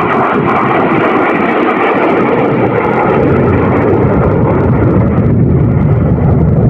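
Loud, steady jet noise of a fighter jet flying over, the sound shifting lower in pitch over the last couple of seconds as it passes; it cuts off suddenly at the end.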